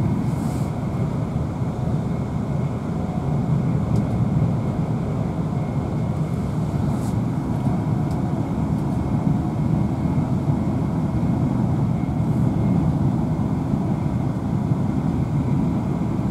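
Cabin noise inside a Class 350 electric multiple unit running at speed: a steady low rumble of wheels on rail, with a faint thin whine over it and a few light ticks.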